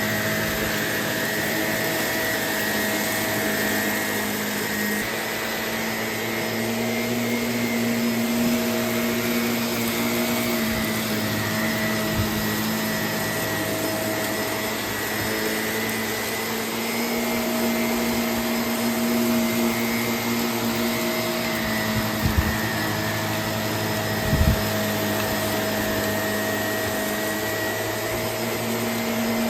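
Vacuum cleaner running steadily, its motor hum shifting slightly in pitch as it works, with a few brief knocks about twelve seconds in and again near twenty-two and twenty-four seconds.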